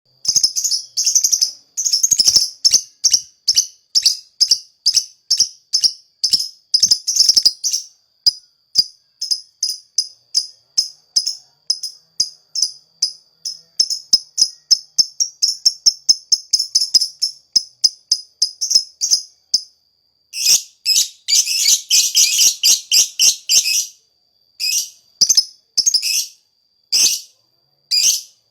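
A lakbet bird in full song: fast runs of short, sharp, high chips repeated several times a second at about one pitch, with a denser burst of chattering near the end.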